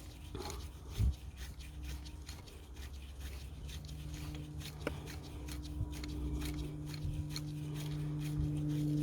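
Small clicks and rubbing of hand work on the engine as the injector clamp bolts are done up by hand, with one dull thump about a second in and a sharp click near the middle, over a steady low hum.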